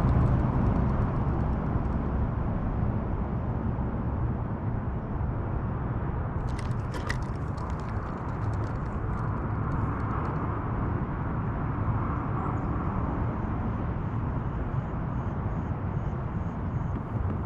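Steady rumble and hiss of traffic on Interstate 55. A short run of clicks and taps comes about seven seconds in.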